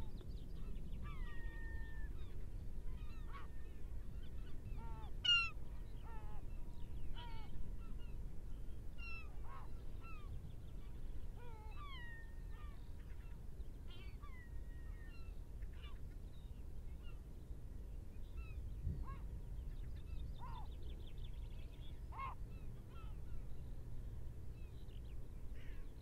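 Birds calling: scattered short whistled and chirping calls, several falling in pitch, one louder call about five seconds in, over a steady low rumble.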